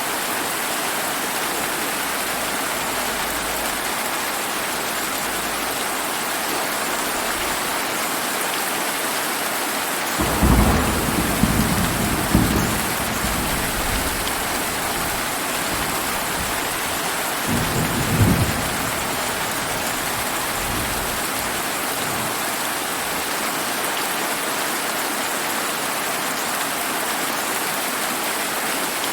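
Steady heavy summer rain, with two low rumbles of thunder: a longer roll starting about ten seconds in and lasting a couple of seconds, and a shorter one about eighteen seconds in.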